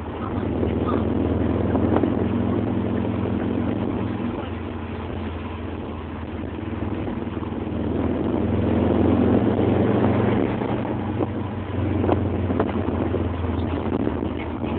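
Subaru Impreza's flat-four engine and road noise heard from inside the cabin on the move. The engine gets louder again about eight seconds in.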